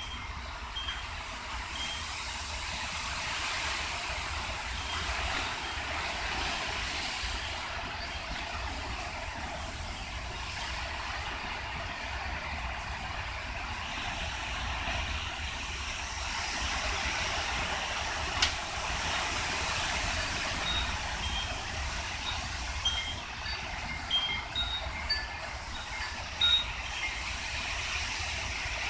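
Hurricane Matthew's strong wind blowing steadily, rumbling on the microphone. Short high wind-chime notes ring out here and there, more often in the second half.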